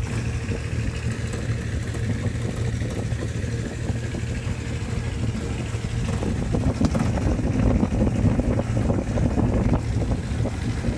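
A motor vehicle's engine running steadily on the move, with a low rumble that grows rougher about halfway through, and wind buffeting the microphone.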